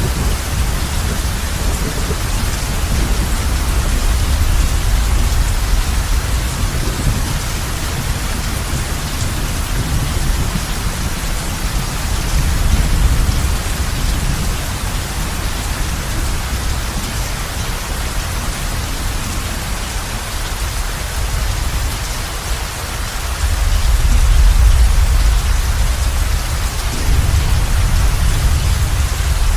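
Heavy rain drumming on a roof as a steady hiss, with low rolling thunder rumbling underneath that swells about halfway through and again, more strongly, near the end.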